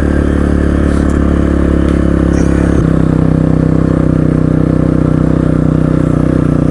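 Motorcycle engine running steadily while under way, its pitch dropping a little about three seconds in.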